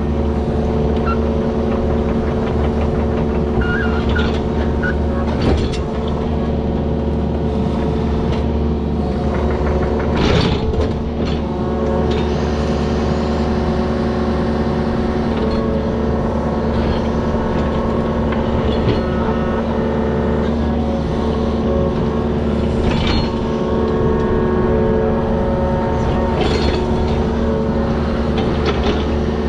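Diesel engine of heavy digging equipment running steadily under load, with a few sharp knocks and clanks from the machine's work.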